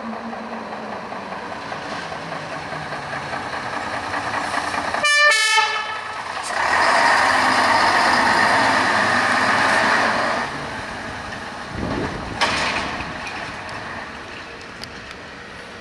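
Heavy vehicle running close by, with a short horn toot about five seconds in, then a loud stretch of about four seconds before it falls away.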